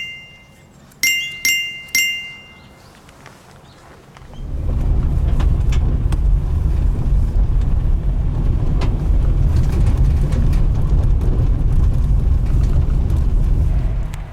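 Four bright ringing chime notes, an inserted jingle sound effect, in the first two seconds. From about four seconds in comes a loud, low rumbling noise with scattered crackles, which cuts off abruptly near the end.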